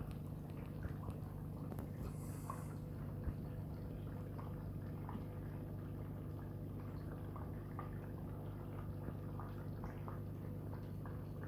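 Aquarium running with a sand waterfall: a steady low pump hum under small scattered drips and trickles of water.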